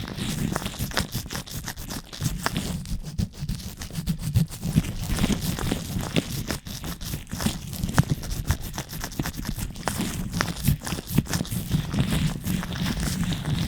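Latex-gloved fingers rubbing and scratching directly on a microphone, giving a dense, continuous run of crackling, squeaking friction with many sharp little clicks.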